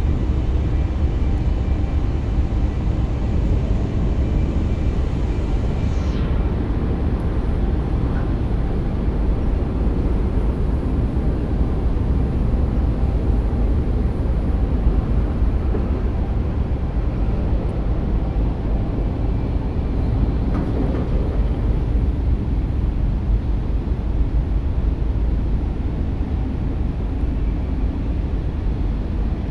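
Strong wind blowing across the microphone: a loud, steady low rumble with no let-up.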